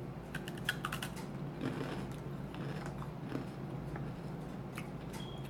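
Crisp clicks and crunches of someone biting into and chewing a crunchy blueberry almond quinoa bite, with a quick cluster of clicks in the first second and a few more near the end.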